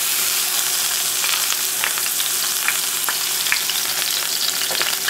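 A steamed chicken embutido log frying in hot oil in a pan: a steady sizzling hiss with scattered small pops and crackles as it starts to brown.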